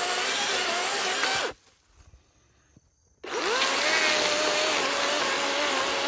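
DeWalt electric chainsaw running with a wavering whine. It cuts out about a second and a half in, then spins back up with a rising whine about three seconds in and runs on. The owner feels the chain is a little dull and possibly short of oil.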